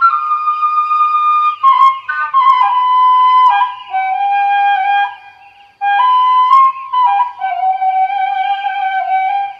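Background music: a flute playing a slow melody of long held notes that step mostly downward, with a brief pause a little past halfway.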